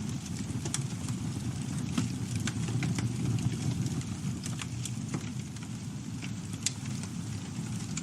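Campfire burning, wood crackling and popping in irregular sharp snaps over a steady low roar of the flames.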